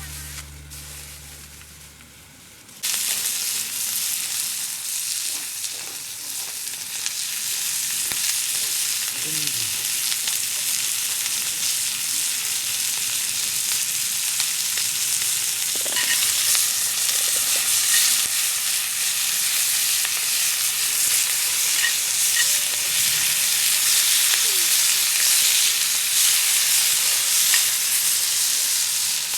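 Food frying in a pan, a steady loud sizzle that starts suddenly about three seconds in and carries on unbroken.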